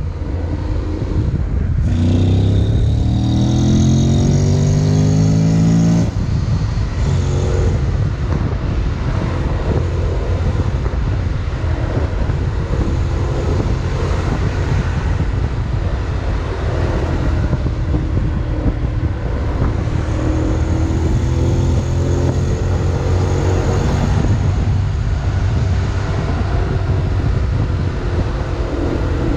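Honda X-ADV 750's parallel-twin engine under way, with wind noise rushing over the microphone. The engine pitch climbs as it accelerates about two seconds in, drops suddenly around six seconds, and rises gently again later.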